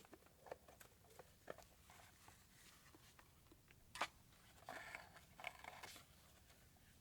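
Faint handling sounds in a small room: scattered light clicks and taps, a sharper click about four seconds in, and a short scraping rustle just before the end.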